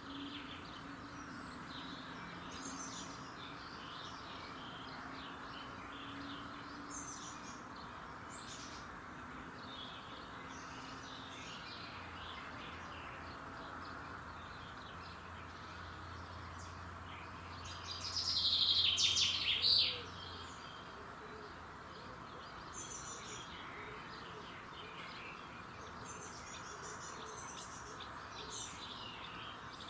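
Several birds singing and chirping in a dawn chorus over a steady background hiss, with one louder, closer burst of song about two-thirds of the way through.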